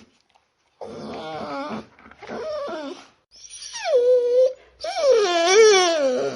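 A dog whimpering and whining: four drawn-out, wavering cries, the last two louder. The third slides down in pitch and then holds.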